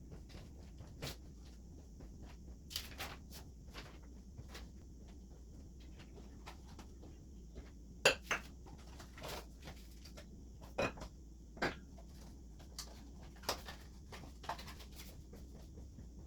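Dishes and cutlery being handled in a kitchen: scattered clinks and knocks of crockery and utensils, the loudest about halfway through, over a low steady hum.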